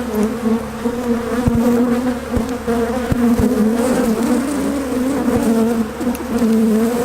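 Honeybees from an open hive buzzing all around, a dense steady hum; the colony is stirred up by the inspection. A few soft low bumps sound through the buzz.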